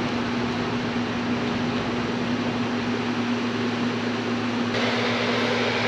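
Steady fan-like rushing noise with a constant low hum underneath. About three-quarters of the way through, a brighter hiss joins it.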